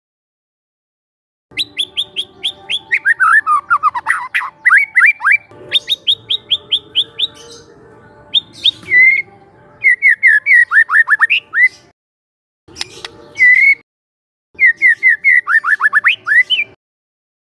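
Young white-rumped shama singing: several phrases of rapid repeated notes, many sweeping sharply downward in pitch, separated by short pauses.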